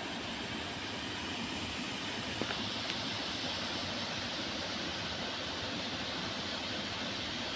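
Waterfall: falling water rushing steadily, with a couple of faint ticks near the middle.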